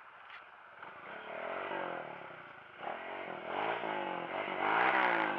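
Off-road dirt bike engine revving up and down several times as it works through the trail, getting louder toward the end.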